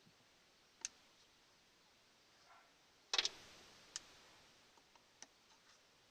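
Scattered sharp clicks of small carburetor parts and tools being handled: a single click near the start, a short loud clatter about three seconds in, then two more single clicks.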